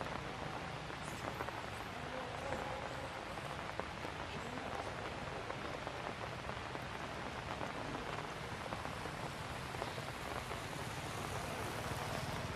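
Light rain falling: a steady, even hiss of drops on surfaces with a few faint ticks of single drops.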